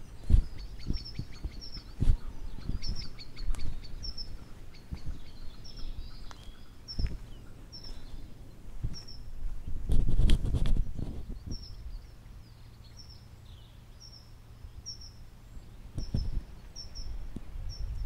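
A small bird calling over and over with short high chirps, about one a second. Low rumbling and knocks run underneath, loudest around the middle.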